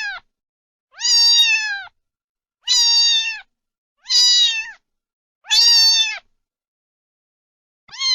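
Cat meowing over and over, one meow about every second and a half, each under a second long and dropping in pitch at the end.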